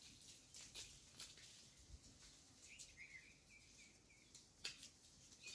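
Faint outdoor ambience: a bird gives a short wavering chirping call about three seconds in, over scattered faint clicks and ticks.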